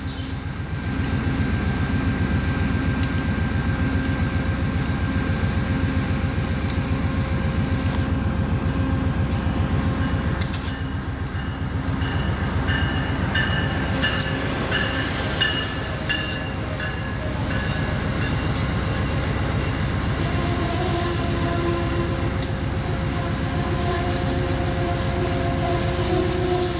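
A train running on the rails: a steady low rumble of wheels and cars throughout. Thin squealing tones from the wheels join in about halfway through and grow stronger toward the end.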